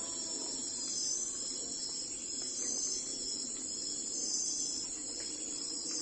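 A steady chorus of crickets chirping, high-pitched and gently pulsing, with a faint low gliding tone that fades away just after the start.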